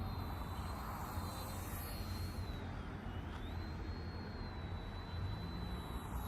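High-pitched motor whine of a small Eachine E110 RC helicopter in flight; the pitch dips briefly about three seconds in and climbs back as the throttle changes. Steady low rumble of wind on the microphone underneath.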